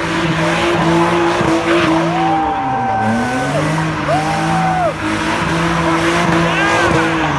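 A car doing donuts: its engine is held at high revs, sagging briefly and picking up again about three seconds in, while the tyres squeal in repeated rising-and-falling wails.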